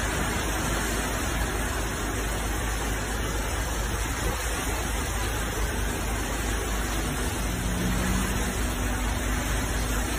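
Heavy rain pouring onto a paved street, a steady dense hiss of downpour. A faint low engine hum from street traffic joins about six seconds in.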